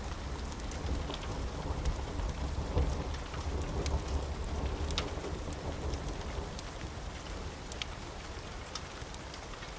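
Steady rain under a low, rolling thunder rumble that eases off over the last few seconds, with scattered sharp ticks throughout.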